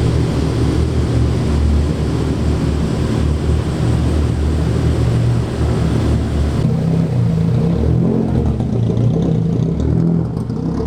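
Modified car's exhaust rumbling at low engine speed as the car creeps past.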